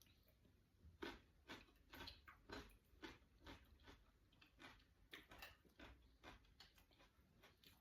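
A person chewing food with the mouth open, giving faint, wet smacking clicks about twice a second.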